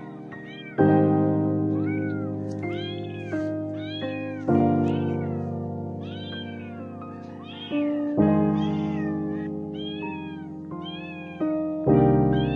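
A kitten meowing over and over in short, high, arching cries, about one a second. Background piano music plays under it, with a loud chord struck about every four seconds.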